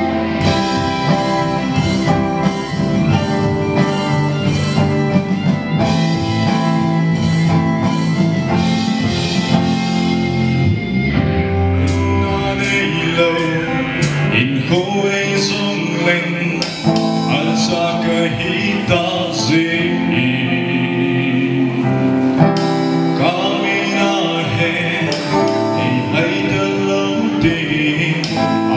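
Gospel band with guitar playing a song live: an instrumental opening, then a singer's voice comes in about eleven seconds in and carries on over the band.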